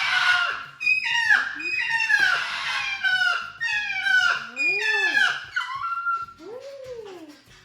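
Moluccan cockatoo calling over and over: a string of loud calls that each drop in pitch, turning to softer rising-and-falling calls in the last couple of seconds.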